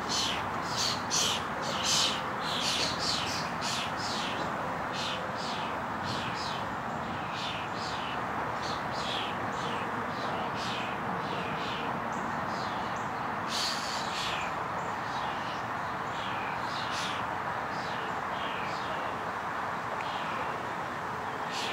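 A small bird calling with short, high, downward-sliding chirps, about two a second, loudest in the first few seconds, over a steady hum of city traffic.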